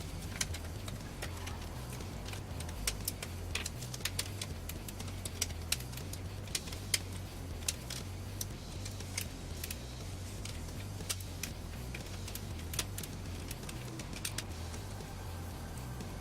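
Light, irregular clicks and taps of small computer parts and screws being handled while a PC is put back together, over a steady low hum.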